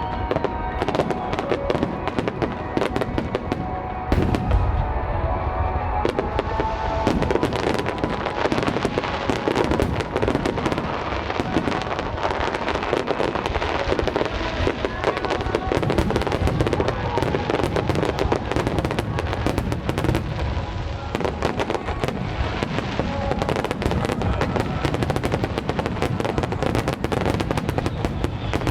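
Aerial fireworks display: a dense, unbroken barrage of bangs and crackling bursts.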